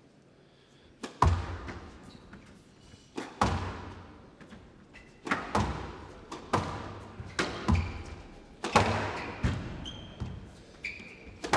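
Squash rally: the ball is struck by rackets and smacks off the court walls about once a second, often in quick pairs, each hit ringing briefly in the hall. Short squeaks from the players' shoes on the court floor come between the hits.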